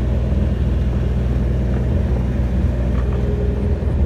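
Tractor engine running steadily, heard from on board while it drives along.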